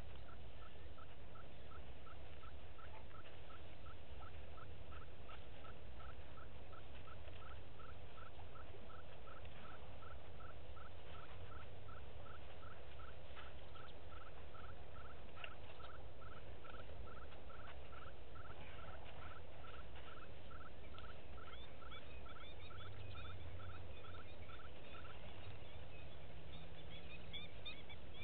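A bird repeating a single short note over and over, a little more than twice a second, that stops near the end as other birds start up with higher chirps. A low steady rumble runs underneath.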